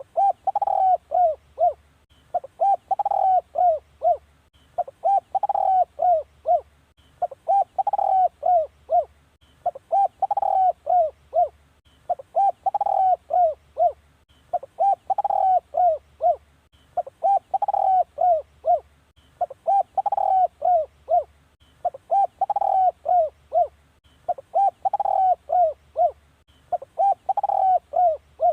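Spotted dove cooing a decoy call, used to lure wild spotted doves. The same short phrase of several low coos repeats about every two and a half seconds.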